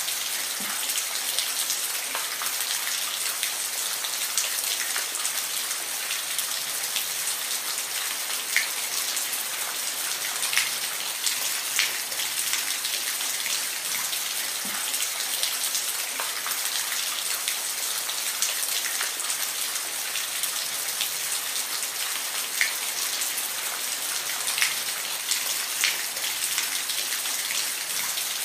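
Steady rain falling, an even hiss with scattered individual drops ticking louder now and then.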